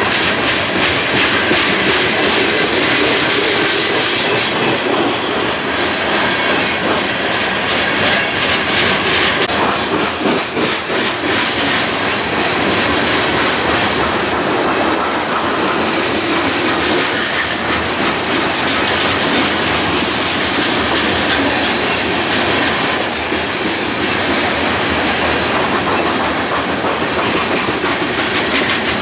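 A long train of railcars rolling steadily past, wheels clicking rapidly over rail joints, with a faint thin wheel squeal running under the noise.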